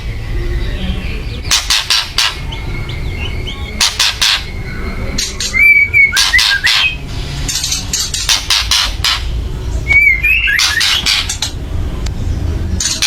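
White-rumped shama giving loud harsh rattling calls (kretekan) in repeated bursts about every two seconds, with short whistled notes between some bursts. This is the aggressive, excited call of a fired-up shama.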